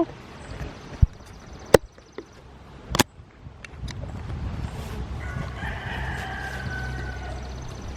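A rooster crowing once, a held call of about two seconds starting about five seconds in. Before it, a few sharp knocks as the wooden beehive is taken apart.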